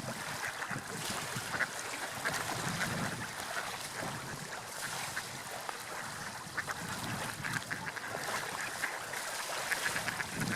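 Gulls calling again and again over a steady wash of surf and wind.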